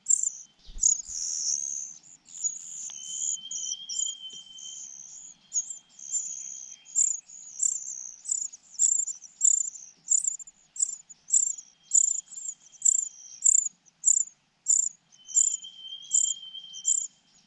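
Nestlings begging in a nest: high-pitched, short chirps repeated about twice a second, with a few longer unbroken runs of calling.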